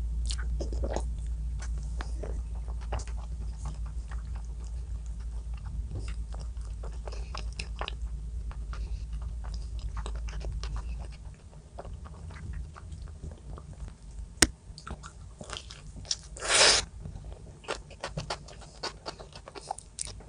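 A person eating close to the microphone: chewing and biting with many small wet clicks and crunches. A low hum runs under it and stops partway through, and there is one sharp click and a brief louder rustle near the end.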